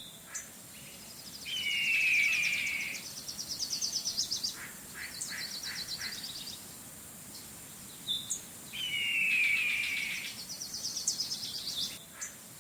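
A songbird singing: a falling whistle followed by a fast trill and short chirps, the same song phrase heard twice.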